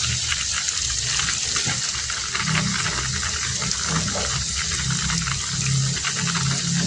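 Heavy rain falling steadily, a dense patter of drops over a low, uneven rumble that gets stronger about halfway through.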